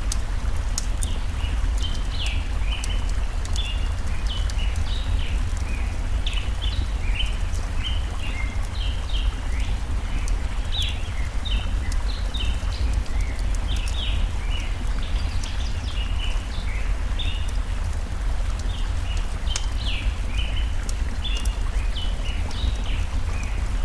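Steady low rush of a flowing stream, with birds chirping in quick short notes throughout and scattered sharp crackles from a burning campfire.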